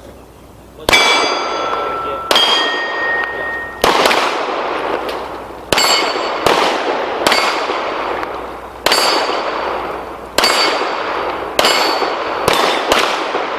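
Pistols firing a string of shots at steel targets, about eleven shots at irregular gaps of roughly half a second to a second and a half, each followed by a long echoing decay. Hit steel plates ring with clear sustained tones, most plainly after the first two shots.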